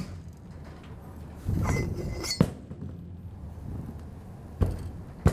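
Metal handling of a Dixon Bayco API adapter valve being closed: about a second of scraping and clinking that ends in a sharp metallic clack, then another single clack near the end, from the spring-loaded poppet and handle.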